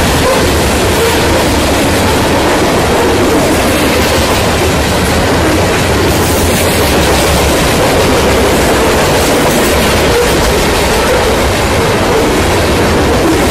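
Covered hopper cars of a long freight train rolling past, their steel wheels running on the rails in a loud, steady rumble.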